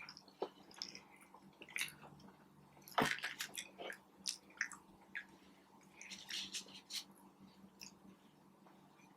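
Close-up chewing and wet mouth sounds of someone eating fast food, with scattered soft crunches and smacks, the sharpest about three seconds in.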